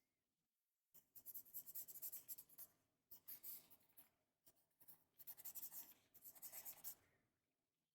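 Quiet writing on paper, scratchy scribbling strokes that come in several short runs with brief pauses between them.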